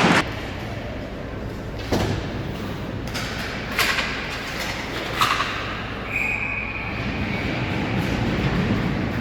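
Minor ice hockey game: steady crowd and rink noise with three sharp knocks of puck or sticks against the boards about two, four and five seconds in, and a brief high steady tone about six seconds in.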